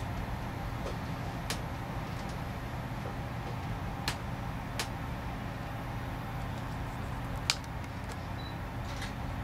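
Steady low rumble of a passenger train car running along the track, heard from inside the car, with four sharp clicks scattered through it.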